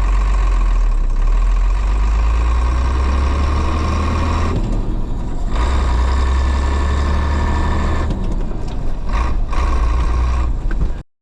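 Diesel lorry engine running, its sound dropping away briefly twice, then cutting off suddenly near the end.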